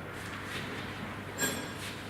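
A single light metallic clink with a brief ring, about one and a half seconds in, over quiet room tone.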